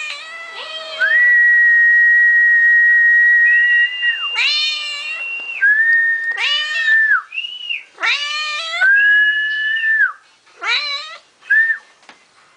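A person whistles long, steady, held notes and a domestic cat meows back after each one, the whistles and meows alternating about five times.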